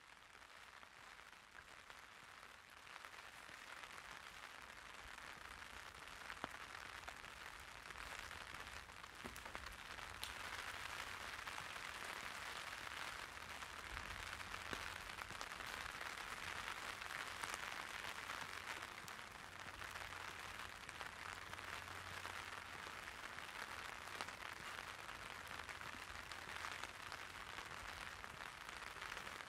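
Light rain pattering on an umbrella: a steady hiss of many small drop ticks. It grows louder over the first few seconds, with a faint low rumble underneath.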